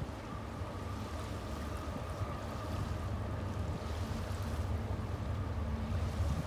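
Union Pacific freight train running by with a steady low rumble and a faint steady tone above it.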